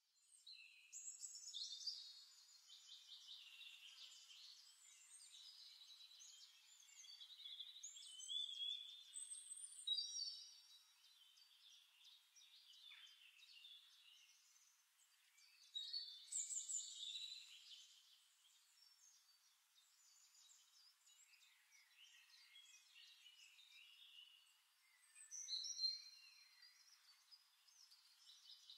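Faint bird chirps and song, in short bouts a few seconds apart.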